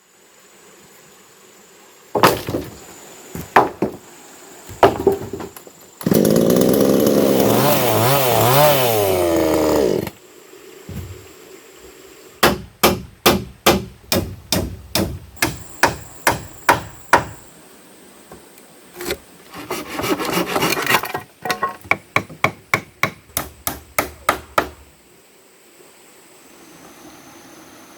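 Wood being worked with tools: a few scattered knocks, then about four seconds of a loud tool sound with a wavering pitch, then two long runs of rapid sharp strikes on wood, about four a second.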